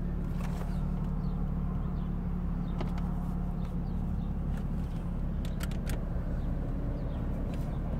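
Steady low hum of a car's engine and cabin, heard from inside the car, with a few light clicks a little over five seconds in.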